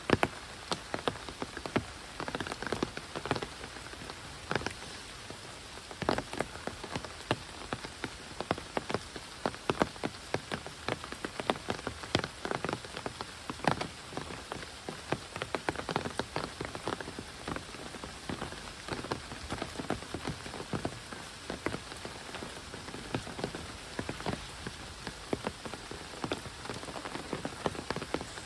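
Heavy rain: a steady hiss of rainfall with many sharp, irregular drop impacts pattering close by.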